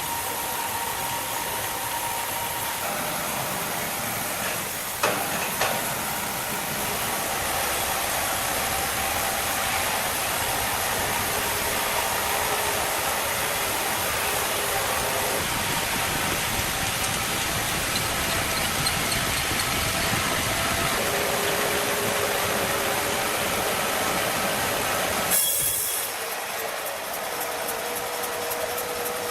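Machinery running steadily with a loud hissing noise and faint shifting hums, with a brief louder burst near the end.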